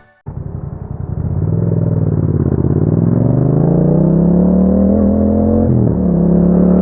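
Yamaha MT-07's parallel-twin engine running through an Akrapovic exhaust as the bike rides off, its note rising in pitch as it accelerates, then holding steady, with a brief drop in pitch about six seconds in as it shifts gear.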